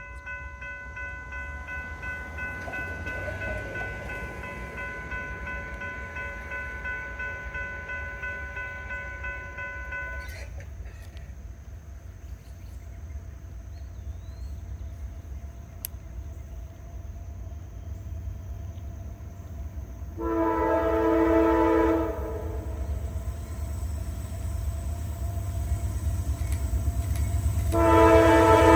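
Norfolk Southern freight train with a deep, steady rumble underneath a steady chord of several notes that holds for about the first ten seconds. About 20 s in, the locomotive's horn sounds one loud two-second blast, and another loud horn blast starts near the end.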